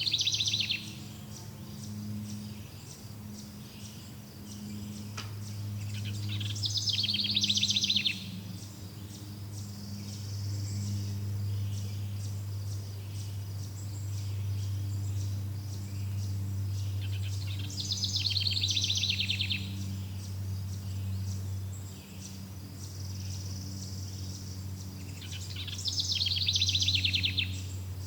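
A songbird repeats a short, fast trilled phrase four times, roughly every eight to eleven seconds. Beneath it runs a steady low hum, and a faint high insect buzz comes and goes.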